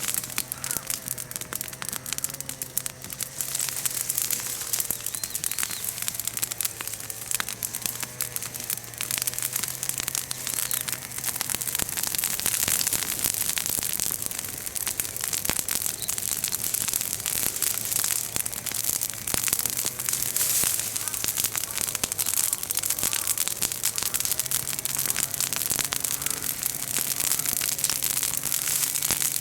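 Bonfire of freshly broken chestnut-tree branches crackling and popping densely as the leaves and small twigs burn. A faint steady low hum runs underneath.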